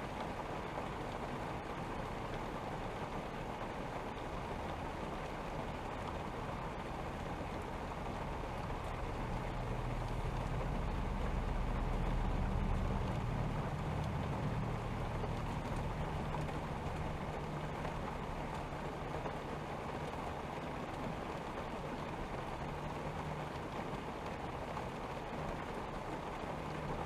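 Steady rain falling. About a third of the way in, a low rumble swells, then fades over several seconds.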